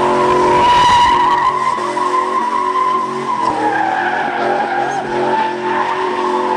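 Truck tyres squealing continuously in a slide, the engine running underneath; the squeal wavers and dips a little about halfway through.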